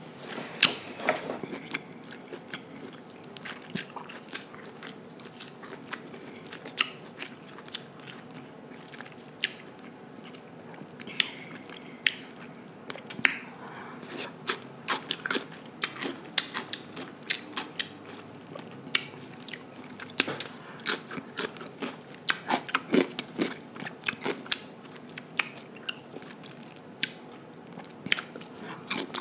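Close-miked biting and chewing of marinated cucumber slices: crisp crunches at irregular intervals, busiest in the last third.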